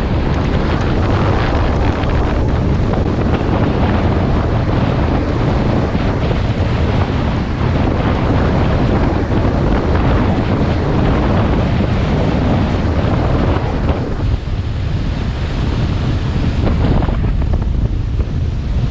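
Wind buffeting the microphone on a powerboat running at speed, a loud steady rumble mixed with water rushing past the hull. The higher hiss thins for a few seconds about 14 seconds in.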